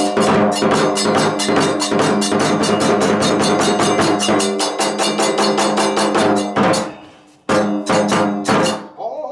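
Kagura hayashi percussion, drum with hand cymbals, playing a fast even beat of about six strikes a second. The beat breaks off about six and a half seconds in, a few last strikes follow, and it stops just before the end.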